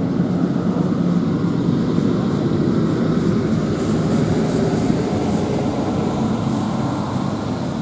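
Steady rumble of a locomotive cab on a heritage railway: the locomotive running and its wheels rolling on the track.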